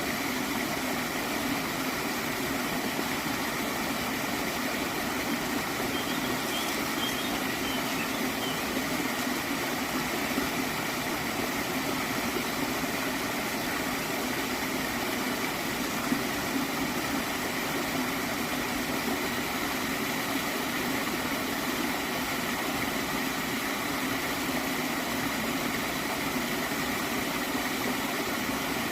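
Gently flowing stream water gurgling steadily.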